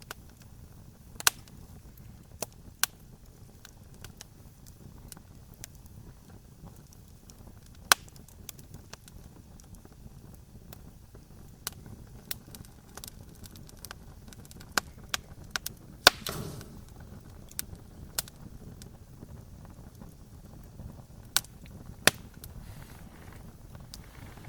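Wood fire crackling: irregular sharp pops and snaps over a low steady rumble of burning, with a louder pop about two-thirds of the way through that trails off in a brief hiss.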